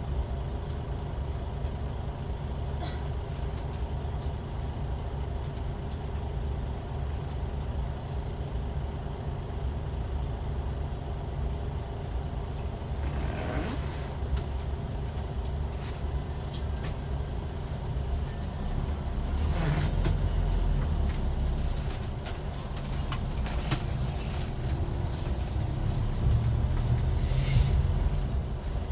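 Hyundai D6CC Powertec 380 inline-six diesel engine of a Hyundai Universe Comfort coach running steadily with a deep rumble. It gets louder around twenty seconds in and again near the end.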